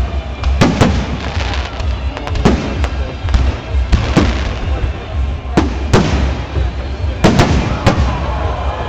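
Fireworks display: a dozen or so sharp shell bursts going off at irregular intervals over a steady low rumble.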